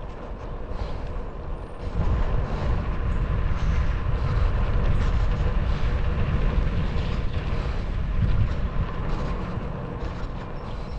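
Wind buffeting the microphone and tyres rolling on the road as a bicycle coasts, a heavy, uneven rumble that eases off over the last couple of seconds as the bike slows.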